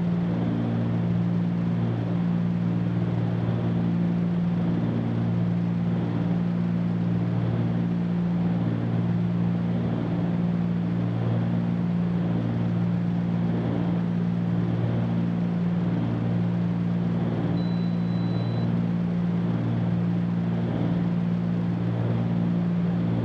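Cabin drone of a Cessna 310Q's two piston engines and propellers in a steady climb: an even low hum of several tones under a broad rushing noise. A brief thin high tone sounds once, about eighteen seconds in.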